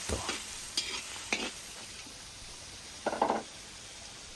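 Onions frying in oil in a pan, with a steady sizzle. A utensil stirring them scrapes the pan a few times, loudest about three seconds in.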